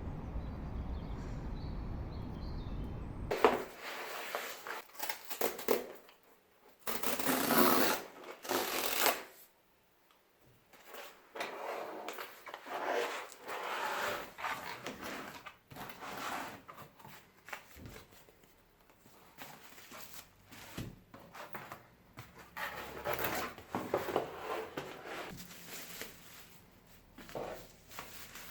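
Steady outdoor background noise with a faint bird call, then, after a sudden cut, parcels of books being unboxed: paper and cardboard packaging rustling, crinkling and tearing in irregular handfuls, with a few sharp knocks.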